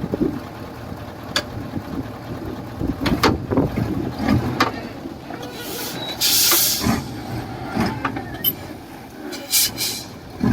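Heavy construction machinery at work: a diesel engine running under irregular metallic clanks and knocks. A burst of hiss lasts about a second, a little past the middle.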